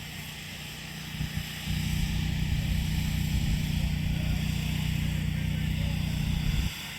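Engine running steadily with a low hum. The hum fades back briefly near the start and cuts off suddenly shortly before the end, leaving a steady high hiss.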